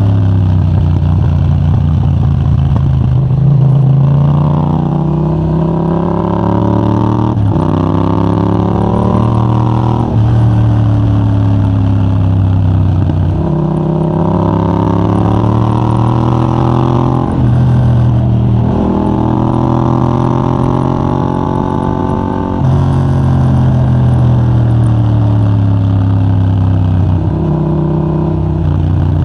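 Yamaha MT-07's 689cc parallel-twin engine through a de-catted Mivv GP Pro titanium exhaust, riding hard: the pitch climbs over a few seconds, drops sharply at each gear change or roll-off, and climbs again several times.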